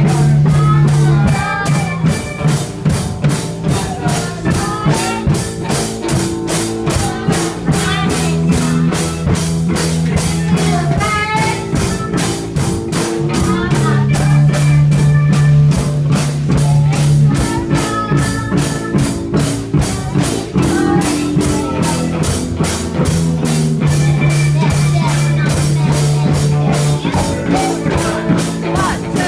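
Live band playing a song with drum kit, electric guitar and bass: a steady cymbal beat over held bass notes that change every few seconds.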